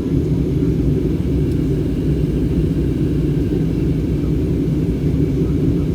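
Steady low rumble of an airliner in flight heard from inside the cabin: engine and airflow noise.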